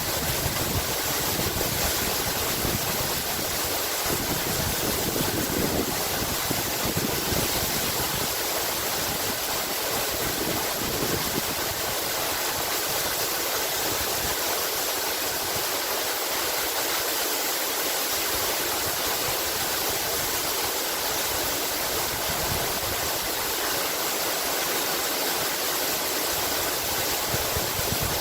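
Waterfall: water falling and splashing in a steady, dense, even rush.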